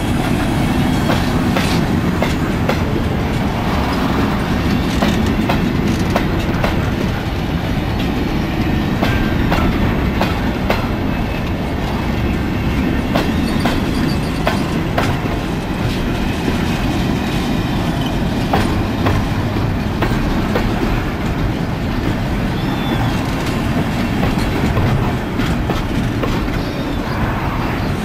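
Freight train's container flatcars rolling past close by: a steady rumble of steel wheels on rail, with repeated clicks as the wheels cross rail joints.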